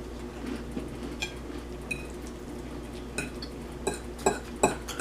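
Fork tapping and scraping against a plate: several light clinks with a short ringing, the loudest near the end.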